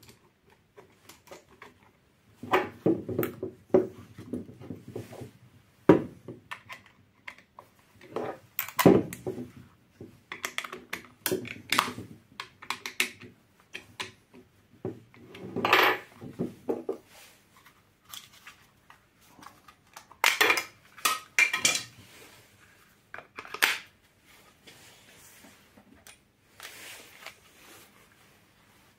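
Irregular knocks, clicks and clatter of hard objects being handled, in loose clusters with short gaps between them, with no motor running.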